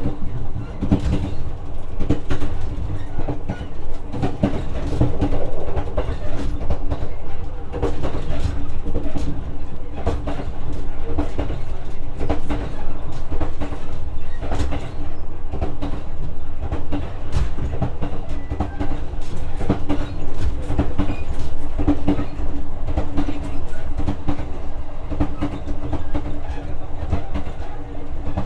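Inside a JR West 125-series electric railcar running at speed: a steady low rumble with a hum, and wheels clicking over the rail joints again and again.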